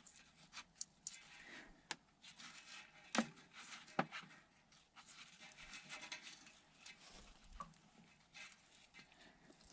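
Faint work noise: scattered sharp clicks and taps, two stronger ones about three and four seconds in, over light rubbing and scraping, as of hand tools and metal fittings being handled on the backhoe's hydraulic lines.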